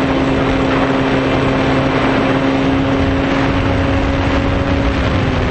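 RC foam airplane's electric motor and propeller running at a steady drone over a rush of wind noise, heard close; the pitch dips slightly about five seconds in.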